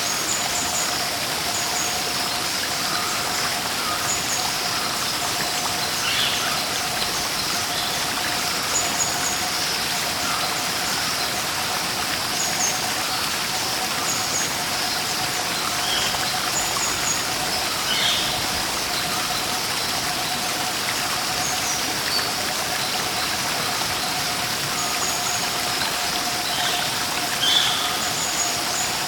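Steady rush of falling water from a waterfall or stream, with birds chirping on and off every few seconds over it. A thin steady hum runs underneath.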